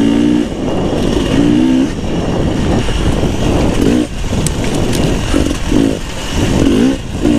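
Beta 300 RR two-stroke single-cylinder dirt bike engine under way, its revs rising and falling in short repeated surges as the bike is ridden over trail.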